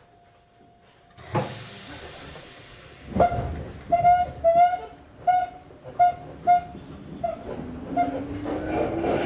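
Izu Hakone Railway Series 3000 train departing: a burst of air hiss as the brakes release, then a clanging warning bell about twice a second, typical of a level-crossing bell. Near the end a rising whine from the resistance-controlled traction motors as the train pulls away.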